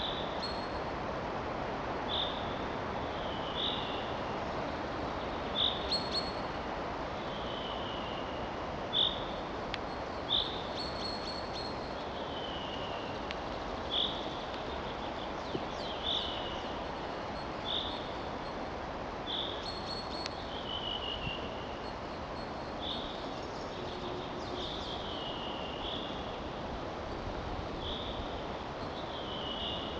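Small birds calling over and over, short high notes and downward slurs repeating every second or two, over a steady rushing noise.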